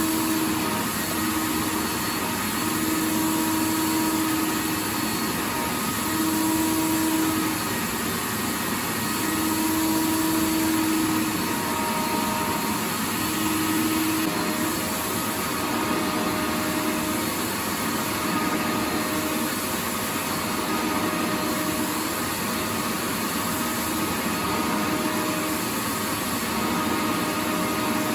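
Vacuum cleaner running continuously: a steady whooshing rush of air with a low motor hum that wavers in and out every second or two.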